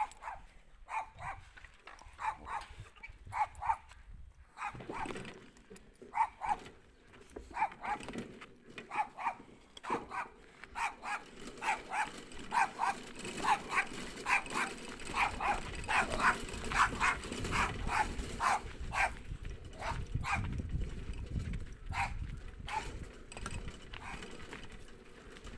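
A dog barking over and over, short barks coming about one to two a second and thickest in the middle, with a low rumble underneath in the second half.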